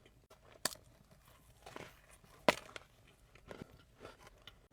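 Close-up mouth sounds of someone eating a frosted doughnut: scattered soft wet smacks and small crunches, the loudest about two and a half seconds in.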